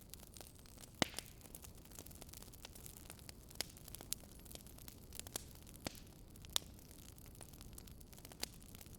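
Burning firewood crackling: irregular sharp pops and snaps over a faint steady hiss, with the loudest pops about a second in and again around six and a half seconds in.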